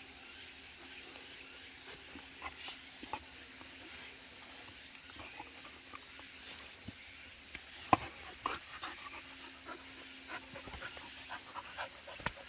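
Jindo dog panting, with scattered light clicks and taps, the sharpest about eight seconds in.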